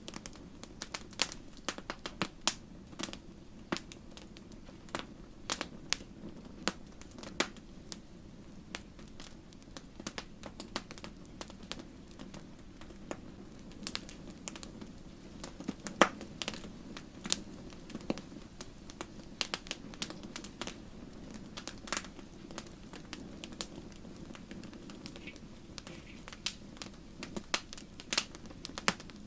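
Wood fire crackling: irregular sharp pops and snaps, several a second at times, over a steady low hiss of burning, with one louder pop about halfway through.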